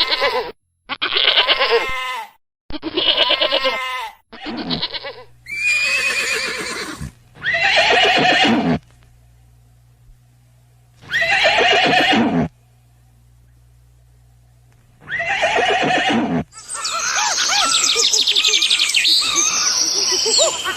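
Farm animals calling: a run of bleats in quick succession, then single long calls a few seconds apart with quiet gaps between, and near the end a dense stretch of high, overlapping calls.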